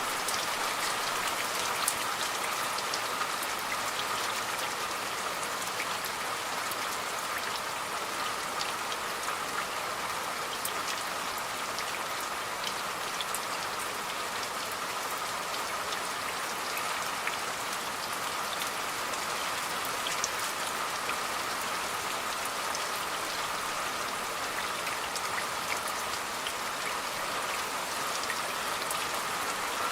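Steady rain falling, with a dense patter of individual drops ticking on a surface.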